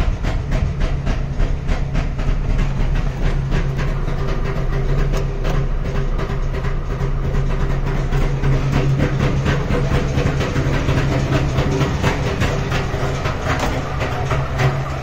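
Trabant 601's two-cylinder two-stroke engine running steadily with a rapid, even exhaust beat, just started after an engine swap. Its fuel tap is still shut, so it is running on the fuel left in the carburettor.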